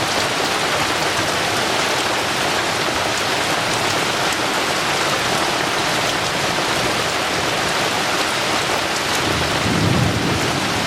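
Heavy tropical rain pouring down steadily, with a low rumble of thunder swelling near the end.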